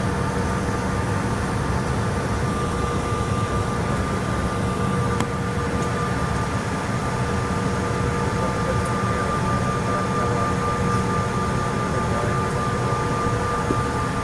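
Cabin noise inside a CRJ-900 regional jet taxiing: a steady rumble from its rear-mounted GE CF34 turbofans at low power, with a steady whine over it.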